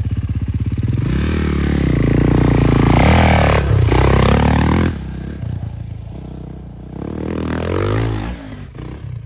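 Dirt bike engine revving hard, its pitch climbing and falling, then dropping off sharply about five seconds in before revving up again near the end.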